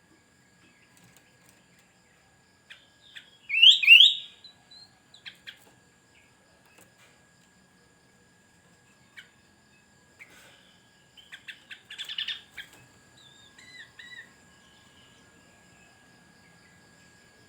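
Sooty-headed bulbul (kutilang) calling: a loud pair of quick rising notes about four seconds in, then a run of short chirps around twelve seconds in. A faint steady high tone runs underneath.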